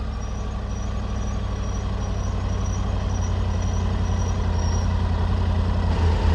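Triumph Tiger 900 GT Pro's three-cylinder engine running steadily while riding, growing slowly louder. A faint, high, evenly repeated chirping sounds for most of the first five seconds.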